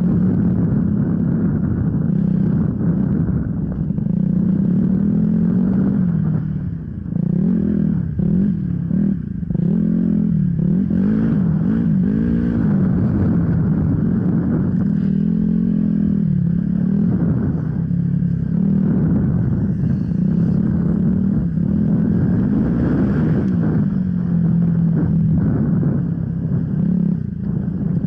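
Off-road enduro motorcycle engine running, its pitch rising and falling again and again as the throttle is opened and closed.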